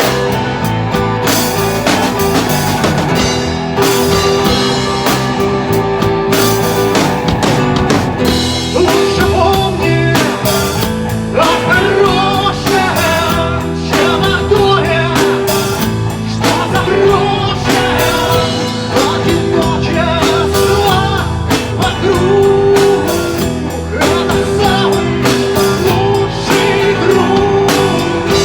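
Rock music with drum kit and guitars playing steadily; an instrumental stretch of the song with a wavering melodic lead line and no recognised sung words.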